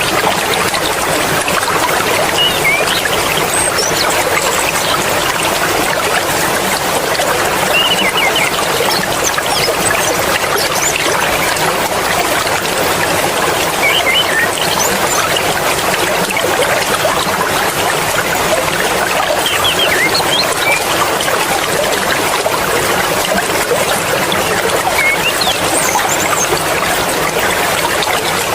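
Mountain stream water flowing and splashing steadily, with a few short, faint high chirps scattered over it.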